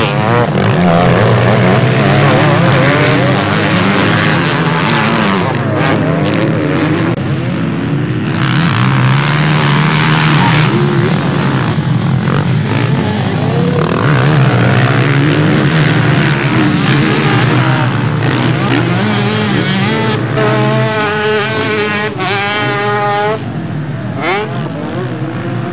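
Several motocross motorcycle engines racing, their pitch rising and falling as the riders work the throttle. A few seconds before the end, one bike's engine stands out, revving high and wavering.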